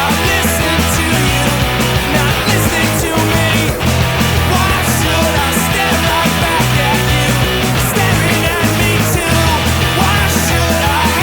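Loud full-band rock music, with electric guitars, bass and drums playing steadily.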